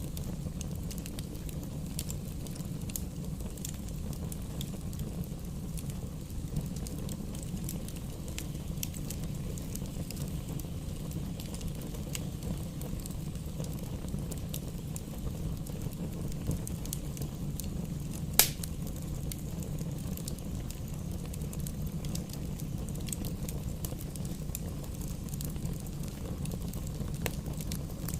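Wood fire burning in a fireplace, crackling with many small pops over a steady low rumble. One sharp, much louder pop comes about two-thirds of the way through.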